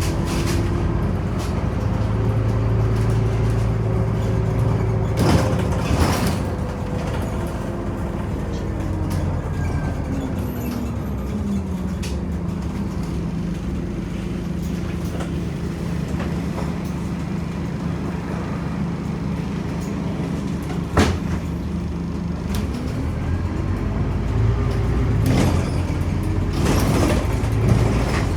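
Scania OmniCity city bus's diesel engine heard from inside the bus: the engine note falls as the bus slows, holds steady for about ten seconds, then rises again as it pulls away. A few sharp knocks and rattles are heard along the way.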